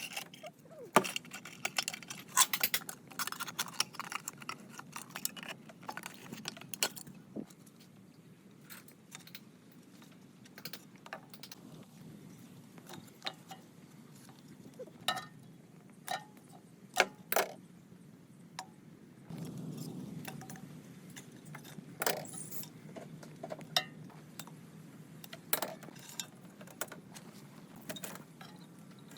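Metal parts and tools clinking and knocking as they are handled, in scattered sharp clinks with a short ring. A steady low hum comes in about two-thirds of the way through.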